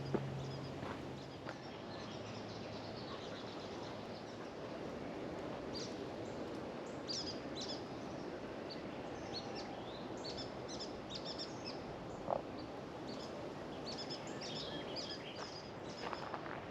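Small birds chirping, short high call notes in clusters from about six seconds in, over a steady background hiss. A single short knock about twelve seconds in.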